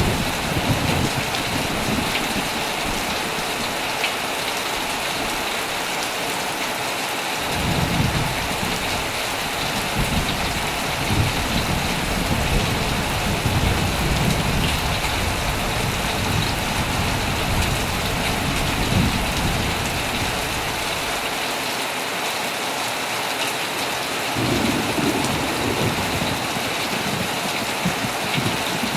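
Heavy rain falling steadily on a tent, a constant hiss. Low thunder rolls in about seven seconds in and rumbles on for some fifteen seconds, then rolls again near the end.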